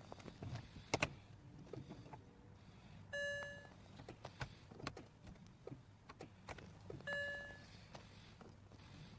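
Two short electronic beeps, each about half a second long and about four seconds apart, among scattered light clicks and knocks.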